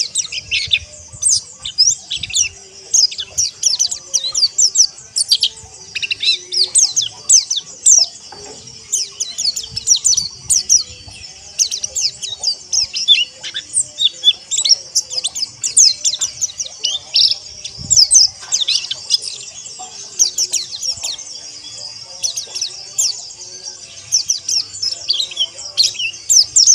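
A flock of white-eyes (pleci) chirping and twittering together: a dense, unbroken stream of quick, high-pitched sweeping chirps from many birds at once.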